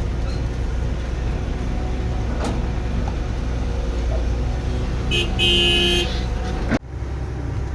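Heavy diesel machinery running steadily, with a vehicle horn sounding once for about a second about five seconds in. The sound cuts off abruptly shortly after and resumes.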